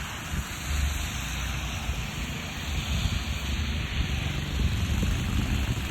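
Snow blower engine running steadily: a low rumble under an even hiss of thrown snow and air.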